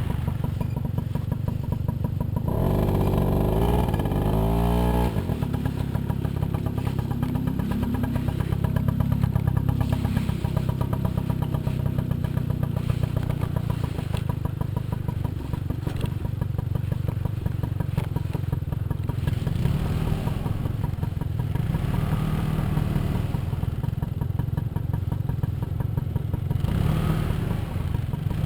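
Small moped scooter engine running under load on a rough trail, revving up with a rising pitch about three to five seconds in, then running on with smaller rises and falls in pitch.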